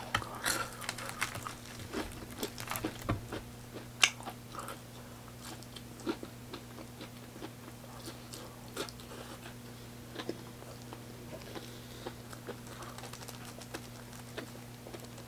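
Close-miked eating of fried chicken: biting and chewing with crisp crunches and clicks, busiest in the first few seconds, then sparser chewing. A steady low hum runs underneath.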